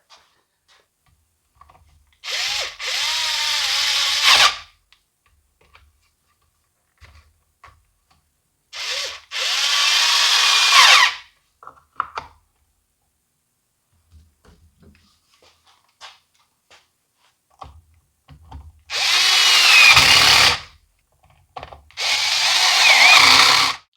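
Jonsered GT21L trimmer's small two-stroke engine running in four short runs of about two seconds each, its pitch wavering as it revs, cutting out between runs, right after a carburetor rebuild.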